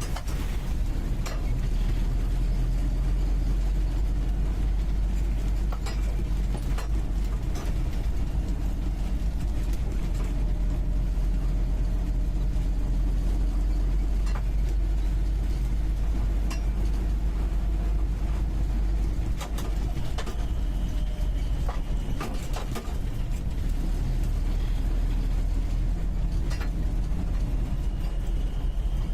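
UAZ 469B's four-cylinder petrol engine running steadily under way, heard from the passenger seat inside the cab, with a deep drone and scattered sharp knocks.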